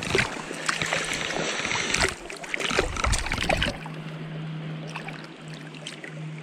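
Flowing creek water with scattered clicks, knocks and rustles of close handling during the first few seconds, then quieter, with a low steady hum.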